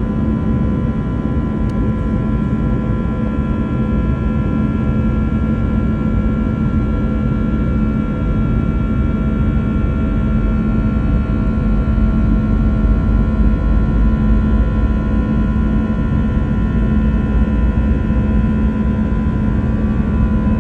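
Cabin noise of an Airbus A321 during takeoff: its jet engines at high thrust give a loud steady rumble with several steady whining tones on top, swelling slightly about halfway through.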